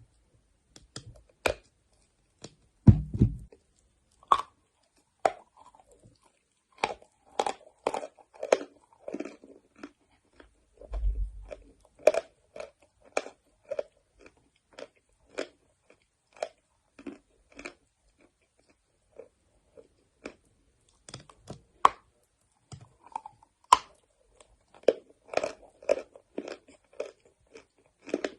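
A person biting and chewing chalk close to the microphone: a run of crisp, irregular crunches and chews, with two dull low thumps, about three and eleven seconds in.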